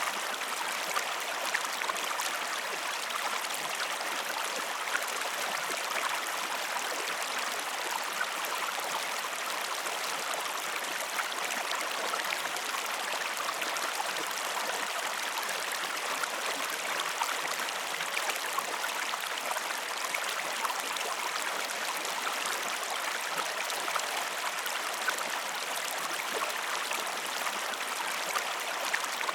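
Stream flowing steadily, a constant babble of running water with fine splashing ticks.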